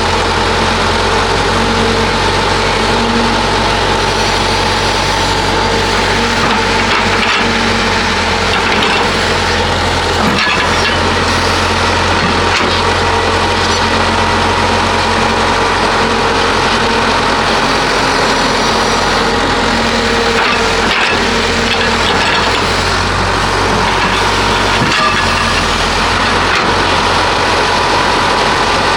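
Heavy diesel construction machinery running steadily under load, with scattered cracks and clatter of material.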